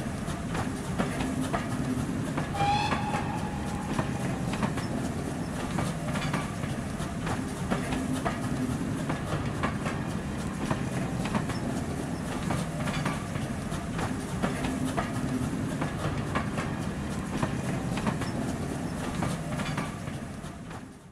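Railway carriages running past, their wheels clicking rhythmically over the rail joints, with a brief high tone about three seconds in.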